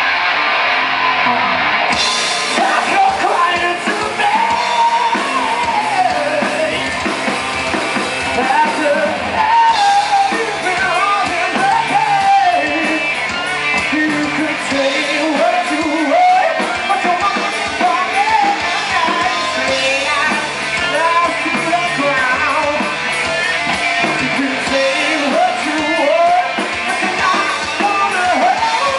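Rock band playing live, with a singer's vocal line over drums and electric guitar; the cymbals come in about two seconds in.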